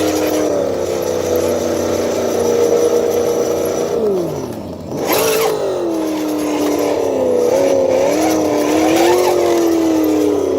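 Simulated V8 engine sound from an ESS Dual sound module's small speaker on a scale RC crawler, rising and falling with the throttle. The pitch drops about four seconds in, then picks back up with a brief rev just after the fifth second, and wavers up and down near the end.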